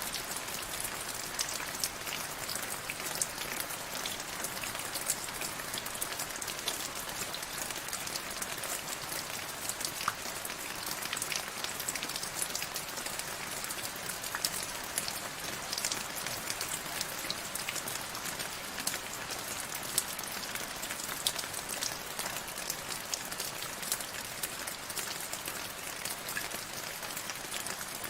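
Steady rain falling, a continuous hiss dotted with the sharp ticks of many individual drops striking a surface.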